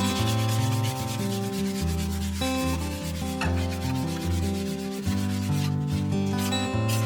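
Sandpaper rubbed quickly back and forth by hand, a fast, even scratching, with background music playing along.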